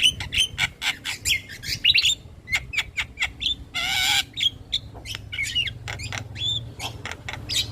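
Javan myna singing: a rapid chatter of sharp clicks and short whistled notes, with one longer harsh call about four seconds in.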